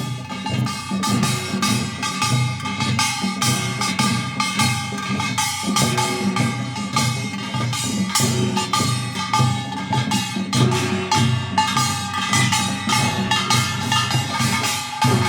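Korean traditional music: drums and other percussion strike a busy, even rhythm under a sustained melody line.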